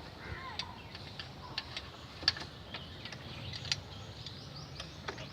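Scattered, irregular light clicks and clinks of hand tools on metal.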